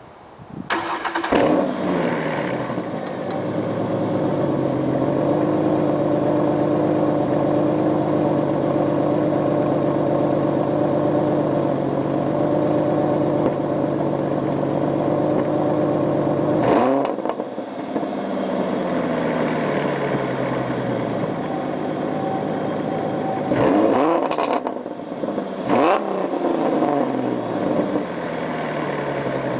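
2006 Ford Mustang's 4.0-litre V6 heard through headers and Mustang GT take-off mufflers. It fires up about a second in, flares and settles into a steady idle, then is revved about three times in the second half, each rev dropping back to idle.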